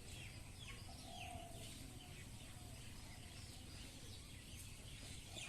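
Faint birdsong: quick, falling chirps repeated over and over, with a couple of short, lower held notes about a second in, over a low steady rumble.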